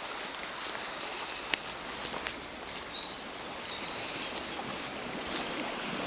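Outdoor background noise with scattered light rustles and clicks and a few brief, faint high chirps.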